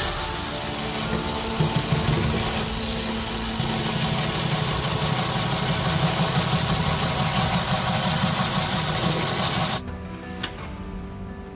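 Steady rasping, rubbing noise of a tool working on the knife, over background music. It cuts off suddenly near the end, leaving the music.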